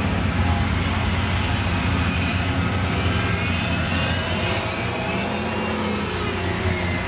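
Several car engines running, with one car driving slowly past close by; its engine note glides up and down between about three and six seconds in.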